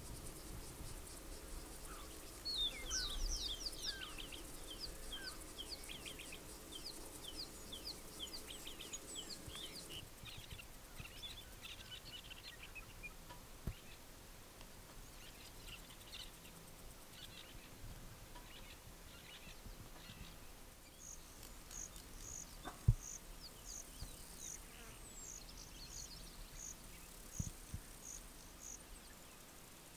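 Wild birds calling in the bush. A quick run of chirping notes starts a few seconds in, scattered calls follow, and a regular series of short high notes comes near the end at about one and a half a second. A sharp knock about 23 seconds in is the loudest sound.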